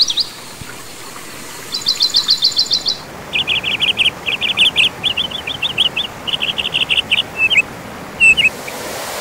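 Birdsong: a small bird sings a fast, high trill of repeated chirps about two seconds in, then several quick runs of slightly lower chirps and a few short single notes near the end.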